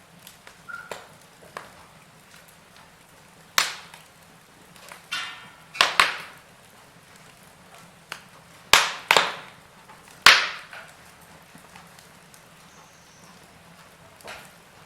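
Wood fire burning in a fireplace, crackling with sharp pops: six loud cracks come between about three and a half and ten seconds in, with a few smaller snaps around them, over a faint steady hiss.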